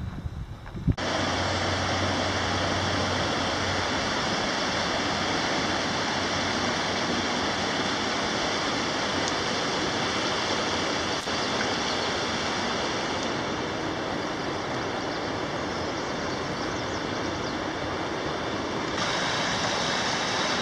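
Steady rush of running water that starts abruptly about a second in and holds at an even level.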